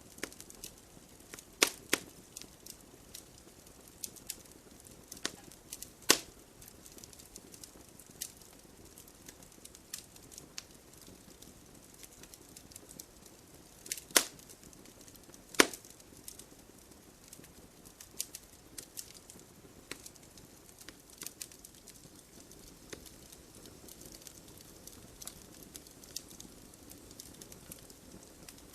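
Wood fire burning in a fireplace: irregular crackling of burning logs over a low steady hiss of flame, with a few sharp, louder pops, two close together about two seconds in, one around six seconds and two near the middle.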